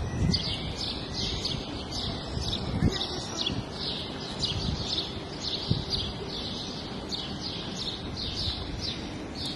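Small birds chirping over and over, short high chirps about two or three a second, over a low rumble of wind or handling noise on the microphone.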